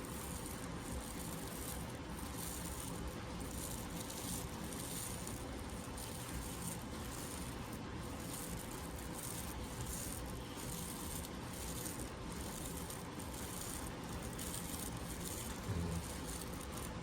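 Brush scrubbing toothpaste over a diamond ring, a steady rough brushing sound.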